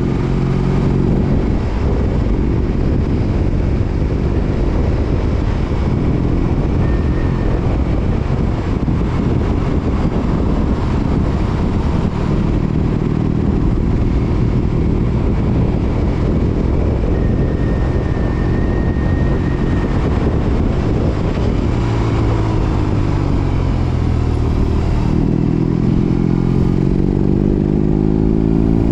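BMW R18 Roctane's boxer twin running through a Freedom 4.5-inch aftermarket exhaust while under way. The exhaust note falls in pitch near the end, then climbs again as the bike accelerates.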